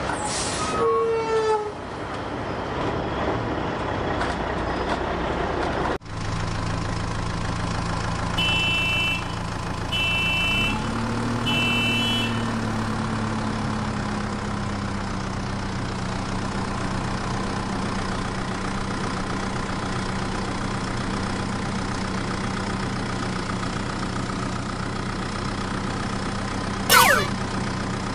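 A truck engine running steadily, with three short horn toots about nine to twelve seconds in. The engine pitch briefly rises after the second toot, and a short sweeping sound effect comes near the end.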